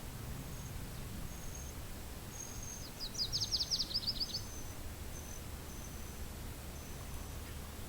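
Wind rumbling low on the microphone, with faint high, thin notes repeating in short dashes. About three seconds in, a songbird sings a fast trill of about a dozen sharp notes lasting just over a second.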